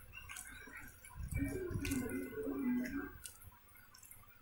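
Close-miked eating: wet chewing and lip-smacking clicks. In the middle, about two seconds of a low, muffled voiced sound, like a hum with the mouth full.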